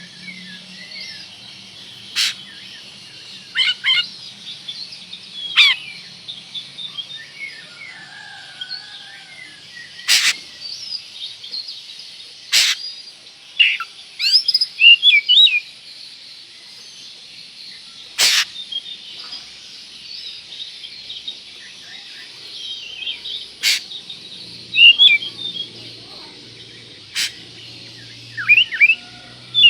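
Oriental magpie-robin (kacer) singing: scattered short whistled phrases and chirps, with a sharp click about every few seconds. Underneath is a constant high chatter.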